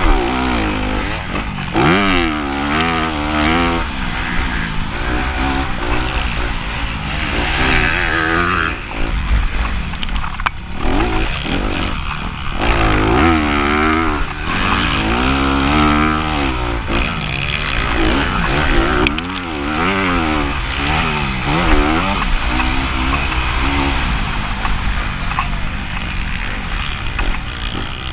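Motocross bike engine revving up and dropping back again and again as it is ridden around the track, the pitch climbing and falling every second or two over a steady low rumble.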